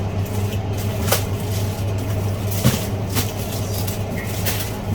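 A few sharp clicks and crinkles from plastic wrap and a plastic computer case part being handled, over a steady low hum.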